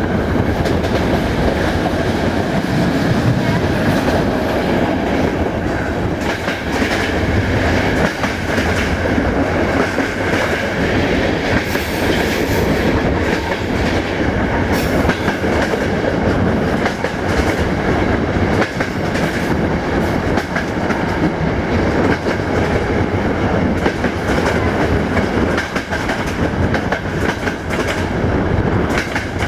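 Passenger train coaches running along the track at speed, heard from an open coach window: a steady rumble and rush of wheels on rail with clickety-clack from the rail joints.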